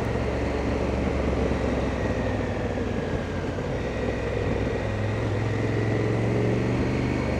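Honda Africa Twin's parallel-twin engine running at steady revs while riding, under a steady rush of wind noise. The engine note firms up a little about halfway through.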